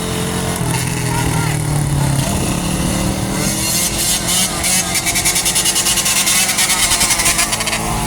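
Dirt bike engine running, with a rapid even pulsing of the exhaust through the second half.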